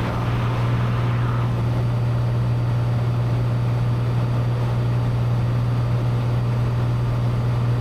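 Steady drone of a Cessna 182's piston engine and propeller in cruise, heard inside the cabin as an even low hum.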